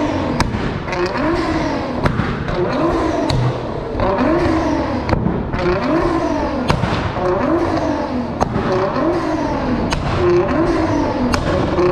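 A tuned car's engine being blipped over and over, about once a second, each rev rising and falling back, with sharp exhaust pops and bangs crackling in between.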